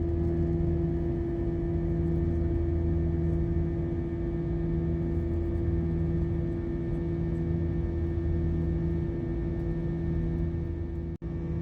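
Steady drone of airliner cabin noise inside an Airbus A321, with a steady low hum over the rushing noise. The sound drops out for an instant near the end.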